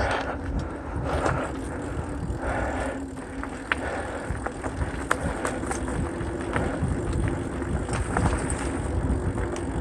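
Mountain bike rolling along a dirt trail: wind rumble and tyre noise with a steady hum, and scattered rattles and clicks from the bike. Puffs of noise come about a second apart over the first few seconds.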